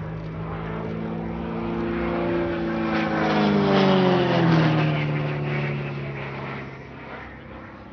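Extra 330LT aerobatic plane's Lycoming IO-580 flat-six engine and propeller making a close pass. The note grows louder, then drops in pitch as the plane goes by about four seconds in, and fades away.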